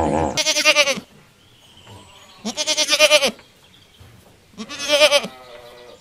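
A goat bleating three times, each a wavering call under a second long, about two seconds apart.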